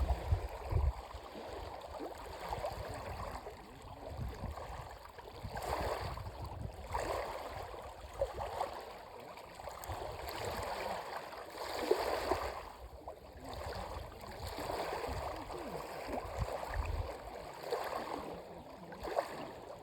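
Dead Sea water sloshing and lapping close by, coming in irregular swells, with low rumbles mixed in.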